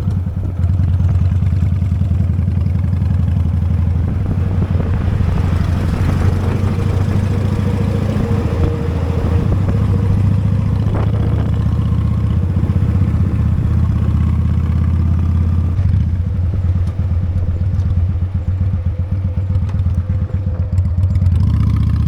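Honda Steed V-twin motorcycle engine running steadily under the rider, with a low, even, pulsing exhaust note.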